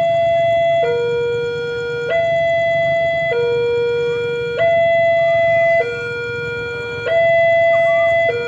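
Two-tone electronic warning siren alternating evenly between a higher and a lower note, about one and a quarter seconds each, over a steady low rumble.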